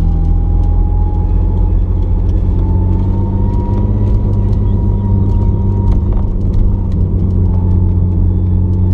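Car engine running at steady revs, with a faint whine that drifts slowly up in pitch.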